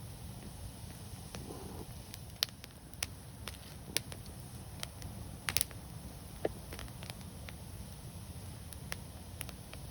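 Wood fire burning with a steady low rumble and irregular sharp crackles and pops every second or so.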